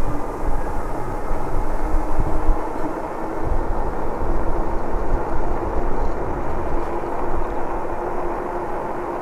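Wind buffeting the microphone of a chest-mounted camera on a moving e-bike, a gusty low rumble, over a steady hum from the e-bike's drive.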